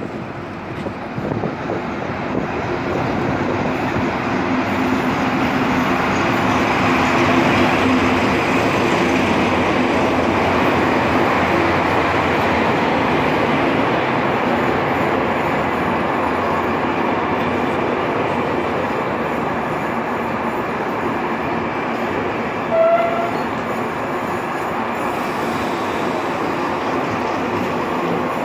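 Passenger train pulling into a station behind a pair of DE 24000 diesel-electric locomotives: the locomotives' engine hum grows as they come up and pass, then a steady rolling rumble of the coaches going by the platform. A brief high tone sounds once about 23 seconds in.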